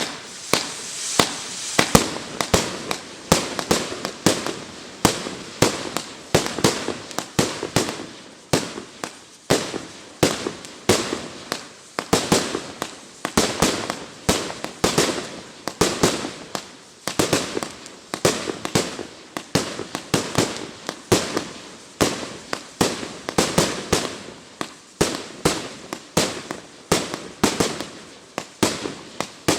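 A 1.2-inch, 100-shot Z-shape fireworks cake firing: a steady rapid string of sharp bangs, two to three a second, with crackling between them.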